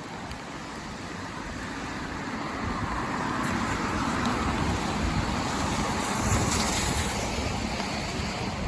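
Road noise from car traffic: a steady rush of tyres on the road that grows louder to a peak about six seconds in, then eases slightly.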